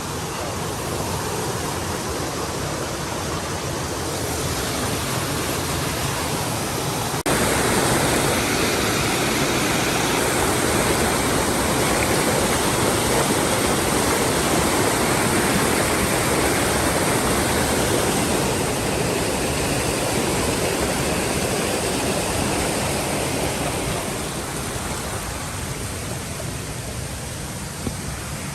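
Rushing water of a waterfall or stream, a steady, even roar that gets abruptly louder about seven seconds in, then eases off over the last few seconds.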